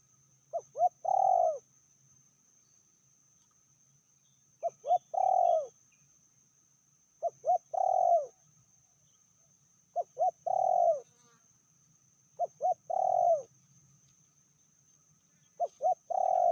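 Spotted dove cooing: six phrases at regular intervals of about two and a half seconds, each two short notes followed by a longer coo. The last phrase is cut off at the end.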